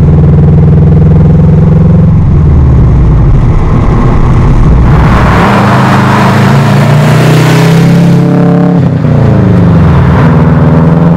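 Subaru WRX turbocharged flat-four running loud through an Invidia N1 cat-back exhaust and catless downpipe. The steady engine note gives way to a rushing noise in the middle, then the pitch drops and climbs again near the end as the revs fall and rise.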